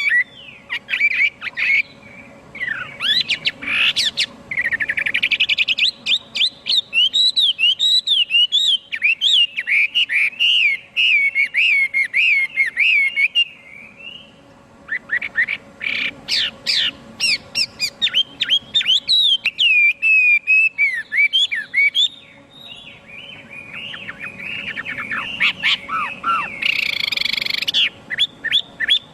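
Chinese hwamei singing a long, loud, rapid song of varied whistled notes and glides, with a short break about halfway through and a harsher, rasping phrase near the end.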